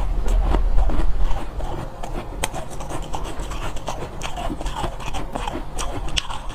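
Soft shaved ice being bitten and chewed close to the microphone: irregular crisp crunches and crackles, with a low rumble in the first second or so.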